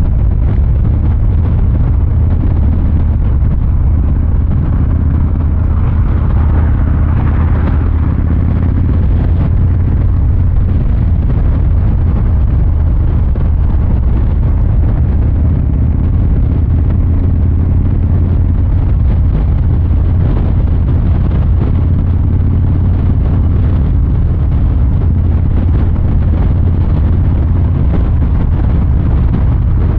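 A Harley-Davidson Fat Boy 114's Milwaukee-Eight 114 V-twin running steadily at riding speed, its low exhaust rumble holding an even pitch with no hard revving. There is a brief rise in hiss about seven seconds in.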